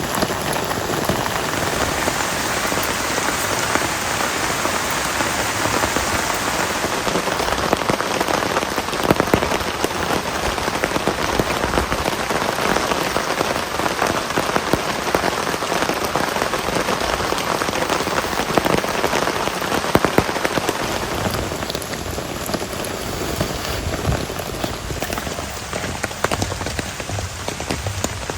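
Heavy rain falling steadily: a dense hiss with many sharp individual drop hits, easing slightly in the last few seconds.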